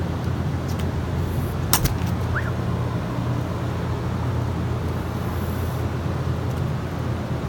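Steady low rumble of street traffic, with one sharp click about two seconds in.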